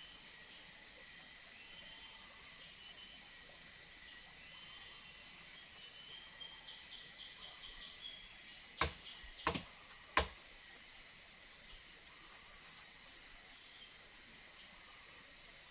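Jungle insects such as crickets and cicadas droning steadily at several high pitches, with some faint chirping in the first half. A little past halfway, three sharp knocks come in quick succession, under a second apart.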